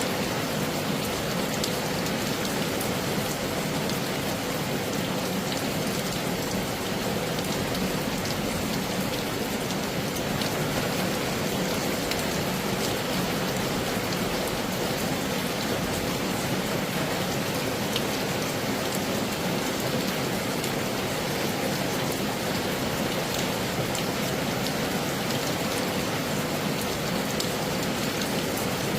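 Heavy rain falling steadily, with scattered sharp ticks of single drops striking close by.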